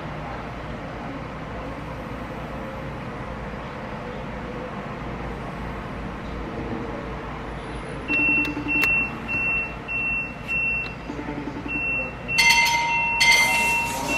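Steady low rumble of a car heard from inside. About halfway through, a run of short, evenly spaced high beeps starts, and near the end a louder burst with steady tones joins them.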